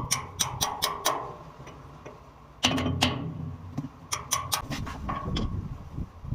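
A run of sharp clicks and knocks, several in quick succession near the start and again through the middle, with a heavier clunk about two and a half seconds in.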